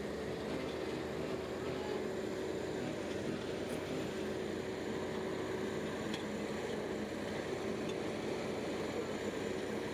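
Shantui bulldozer engine running steadily, a constant even hum with no changes in pace.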